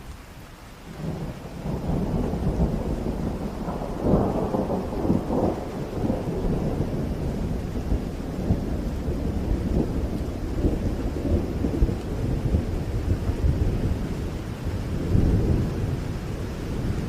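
Thunder rolling over heavy rain: a low rumble builds about a second in, crackles loudest around four to five seconds in, and swells again near the end.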